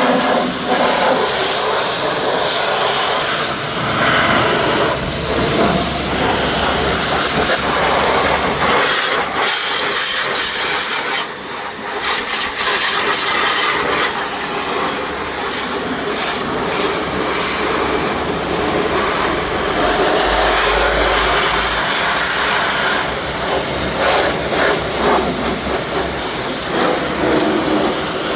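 Pressure washer spray hitting a car's bodywork: a continuous hissing rush of water that rises and falls as the jet is moved, easing off briefly about eleven seconds in.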